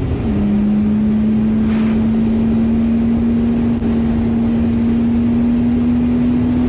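V6 car engine running at a steady speed while driving, a continuous drone over road and wind noise. Its pitch drops right at the start and then holds level.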